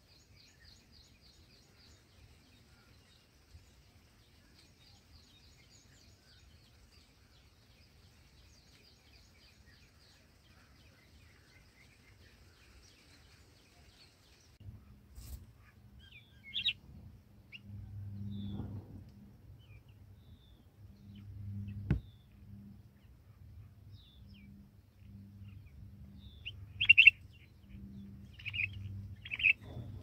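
Red-whiskered bulbul nestlings and parent at the nest: a faint, rapid high twitter for about the first half, then several short, sharp chirps, the loudest a few seconds before the end, over a low pulsing hum.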